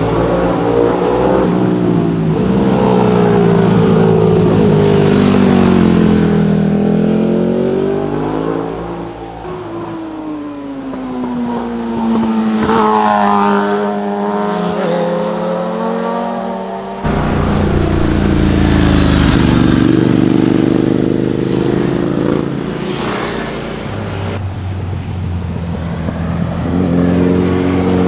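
Motorcycles ridden past through corners one after another, their engines rising and falling in pitch as they accelerate and ease off. About two-thirds of the way in, a louder, deeper engine sound cuts in suddenly.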